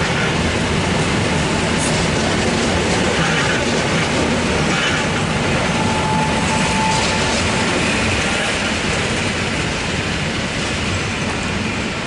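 EN57ALd electric multiple unit running past at low speed during a shunting move, a steady rolling rumble of wheels on rail that grows a little quieter near the end.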